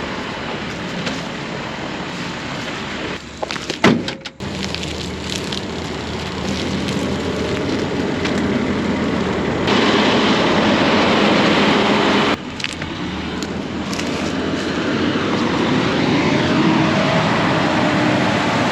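Large farm machine running steadily with a heavy engine and mechanical noise. The sound breaks off and changes abruptly about 3 to 4 seconds in, jumps louder near 10 seconds, and drops back near 12 seconds.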